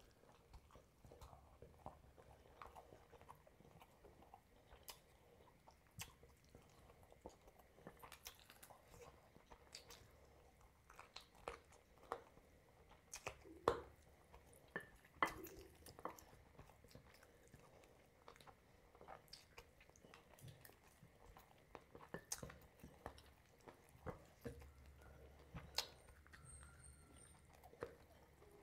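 A person chewing food close to the microphone: soft wet chewing and mouth clicks with scattered sharp crunches at an irregular pace. The loudest are a couple of sharp crunches about halfway through.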